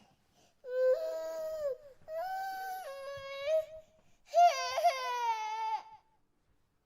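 Baby crying in three drawn-out, pitched wails with short breaths between them, the last one wavering, then a pause near the end.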